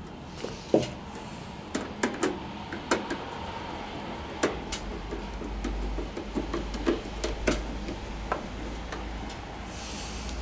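Scattered clicks and knocks from the SilverCrest microwave being handled, with a low hum setting in about four and a half seconds in.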